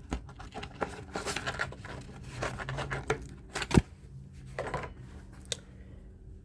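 Hands handling the fan motor and nearby material: irregular rustling and light scraping with scattered clicks, and one sharp knock about four seconds in.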